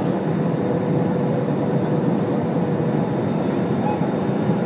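Steady airliner cabin noise: an even rush of engine and airflow noise, with a faint steady hum running through it.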